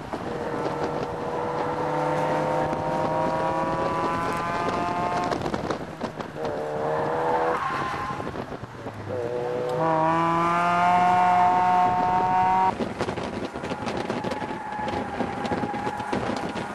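Mazda MX-5's four-cylinder engine accelerating hard on track, heard from inside the open cockpit with wind rush: the revs climb in three pulls with brief breaks at the gear changes, the last pull the loudest, then the driver lifts off about three-quarters of the way through and the engine note drops to a lower, steadier sound.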